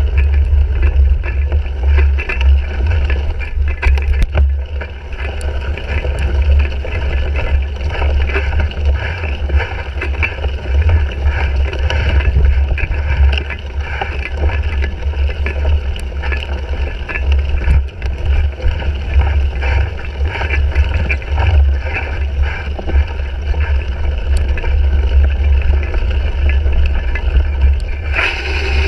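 Wind buffeting a GoPro's microphone as a cyclocross bike is raced over rough ground, a heavy steady rumble with many small rattles and clicks from the bike. The noise brightens and gets hissier near the end.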